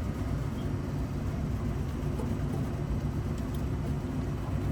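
Steady low mechanical drone of running machinery, with a few faint light clicks.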